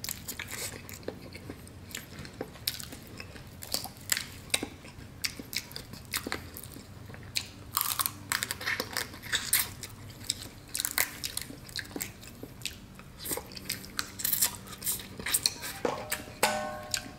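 Close-miked chewing and mouth smacking of a person eating Cajun butter–sauced snow crab and potatoes, full of short wet clicks at an irregular pace, over a faint steady low hum.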